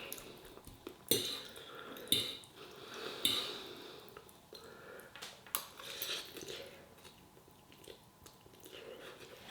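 Cutlery clinking and scraping against a dish of noodles during eating, a string of separate sharp strokes with the loudest in the first few seconds.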